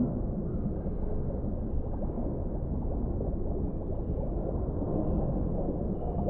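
Deep-sea underwater ambience: a steady low rumbling wash of water, with a faint high thin tone drifting in now and then.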